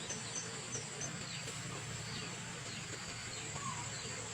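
Forest ambience: a steady high insect drone, a run of short high chirps about four a second that stops about a second in, and faint bird calls with falling notes.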